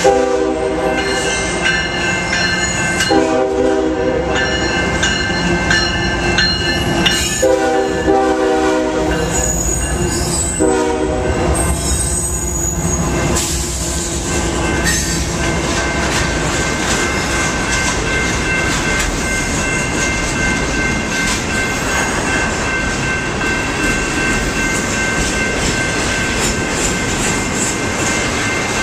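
Diesel locomotive's air horn sounding several long blasts over the first dozen seconds, then the train rolling past with a steady rumble and high, drawn-out steel wheel squeal.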